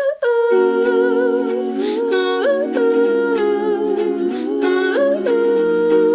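Background music: the wordless opening of a song, layered voices humming held notes in harmony with a few short upward slides.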